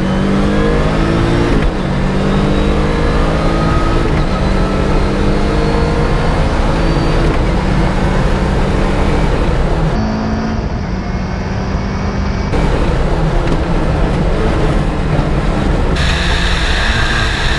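Lancia Delta Integrale Evo rally car's turbocharged four-cylinder engine under hard acceleration, heard on board. The revs climb repeatedly and drop back at gear changes every few seconds.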